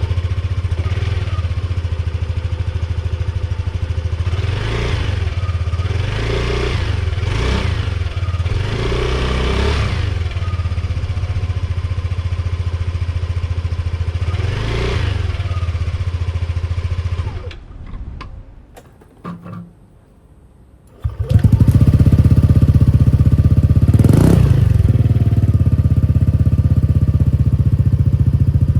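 Yamaha Cygnus Gryphus 125cc single-cylinder four-stroke scooter engine idling with several short throttle blips, heard through its stock muffler. It stops for a few seconds, then runs again noticeably louder through a Yoshimura aftermarket exhaust, with one more rev blip.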